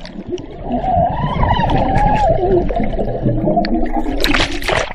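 Muffled underwater sound in a swimming pool, heard through a submerged microphone: bubbling and gurgling with a wavering hum. A splashy rush comes near the end.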